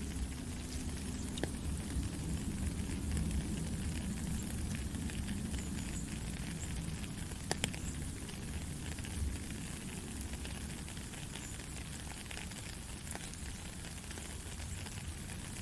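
Heavy rain falling steadily as a continuous hiss, with a low rumble underneath and a few sharp drop clicks, the loudest about halfway through.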